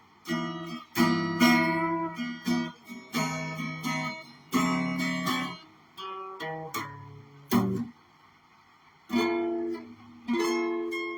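Instrumental passage of a live song: a guitar strumming separate chords with short gaps between them and a brief stop about eight seconds in.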